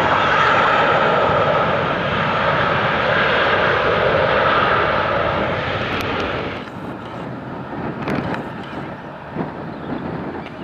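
Boeing 787-8 jet engines running loud and steady at high power for takeoff. About two-thirds of the way in, the sound drops abruptly to a much quieter rumble with a few faint knocks.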